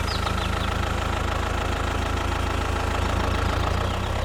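Small tractor engine idling steadily, with a fast, even low chug.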